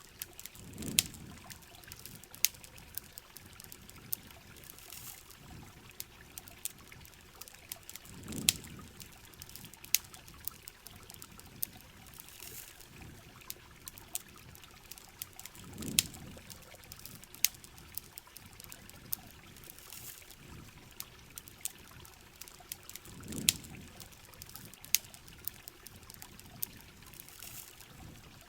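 Heavy rain hissing steadily with a campfire crackling and popping over it in sharp, irregular snaps. A low whoosh rises and fades about every seven and a half seconds.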